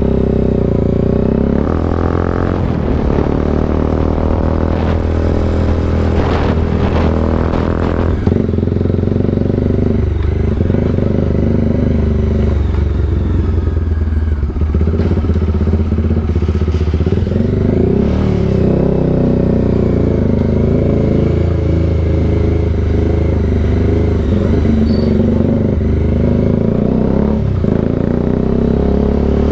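Bajaj Dominar 400's single-cylinder engine running through an aftermarket SC Project exhaust while riding. Its pitch shifts with the throttle in the first several seconds, then holds fairly steady.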